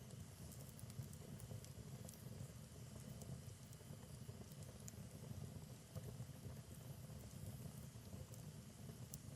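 Wood fire burning in a fireplace, crackling faintly with scattered small pops over a low, steady rumble of flame.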